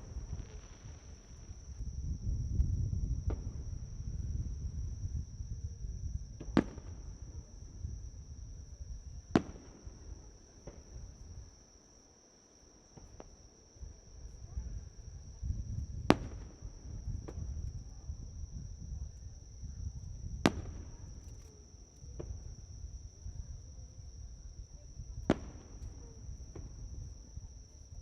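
Fireworks shells bursting as single sharp bangs several seconds apart, about five loud ones and a few fainter, with a low rumble between them. Under them runs a steady high chirring of insects such as crickets.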